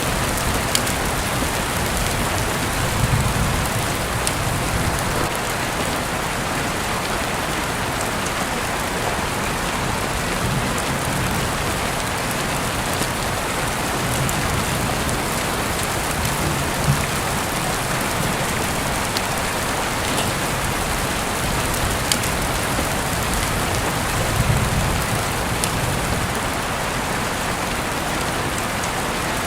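Heavy rain falling steadily, a dense even hiss with scattered sharp drip ticks. A few soft low rumbles swell and fade several times.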